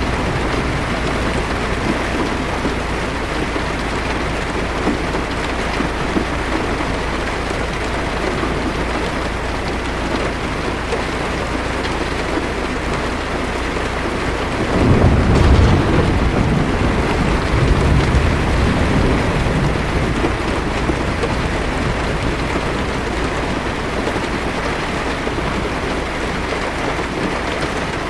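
Heavy rain on a car's roof and windshield, heard from inside the car, falling steadily. A low rumble of thunder swells about halfway through, with a smaller rumble a couple of seconds later.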